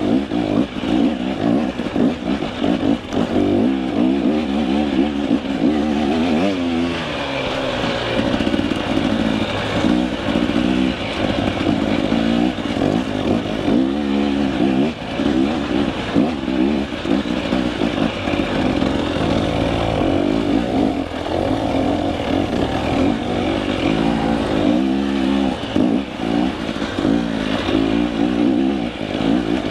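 KTM 300 EXC single-cylinder two-stroke enduro engine revving up and dropping back again and again as the dirt bike is ridden at speed.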